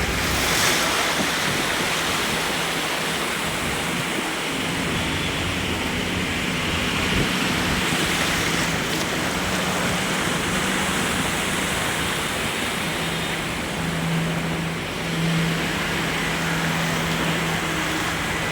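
Steady rushing of flowing floodwater. About halfway through a low steady hum joins it.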